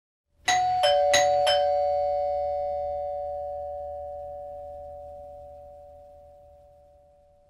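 Doorbell chime: four struck notes on two pitches in quick succession, ringing on and slowly fading away.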